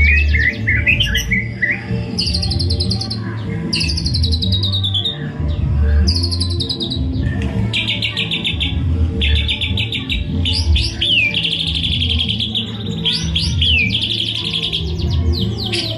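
White-rumped shama (murai batu) singing in full song: bursts of rapid repeated notes and quick swooping whistles, phrase after phrase. Background music with a steady low beat plays underneath.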